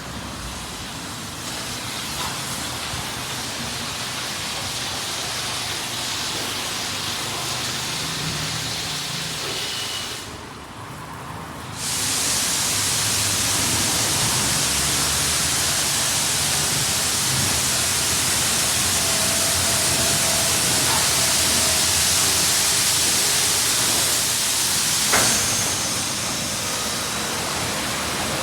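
Ryko SoftGloss XS 2 automatic car wash spraying water over a car: a steady rushing hiss of spray. It fades briefly, then comes back louder about twelve seconds in.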